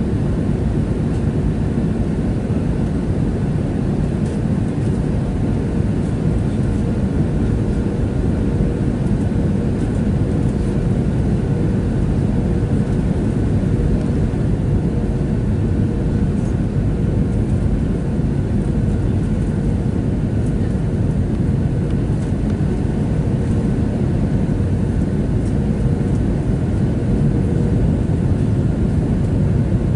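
Steady cabin noise inside a Boeing 737-700: the even drone of its CFM56-7B engines and rushing air, with a faint steady hum, unchanging throughout.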